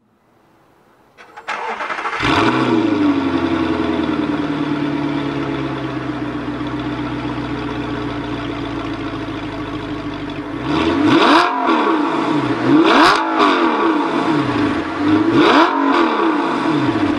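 Audi R8's 4.2-litre V8 with a Meisterschaft aftermarket exhaust starting up about a second in, flaring and settling into a fast idle that slowly drops. It is then revved three times, each rev rising and falling quickly.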